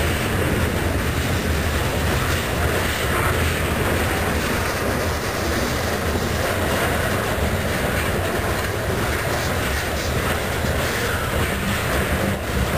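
Mixed freight train's cars, covered hoppers and tank cars, passing close by, their steel wheels rolling steadily over the rails.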